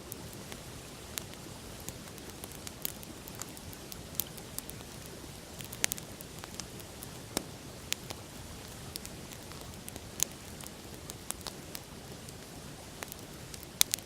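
Wood campfire crackling, with sharp irregular pops and snaps, a few much louder than the rest. Under it runs a steady rush of flowing river water.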